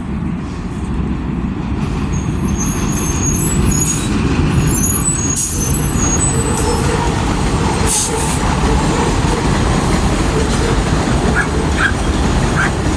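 MTA city bus running with a steady low rumble, its brakes squealing high about two to six seconds in, and short air-brake hisses, the strongest about eight seconds in.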